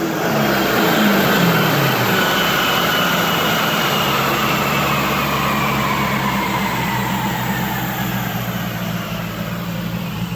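Twin-turbo Dodge Challenger lifting off after a full-throttle pull on a chassis dyno: the engine drops to a steady idle within the first two seconds while a whine from the drivetrain and spinning dyno rollers falls slowly as they coast down.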